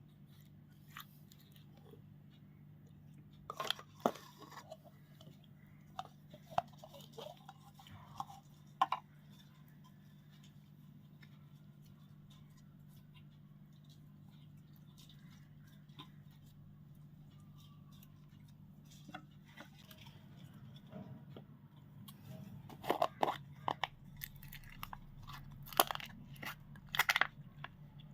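Slime being squished and mixed by hand: scattered sticky crackles and clicks, sparse at first and busier and louder in the last several seconds.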